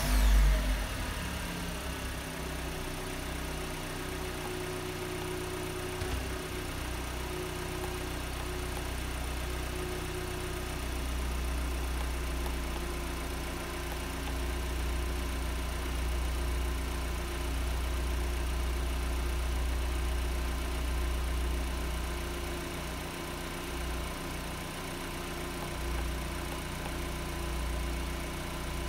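Car engine just started: a brief loud flare as it catches, then it settles into a steady idle.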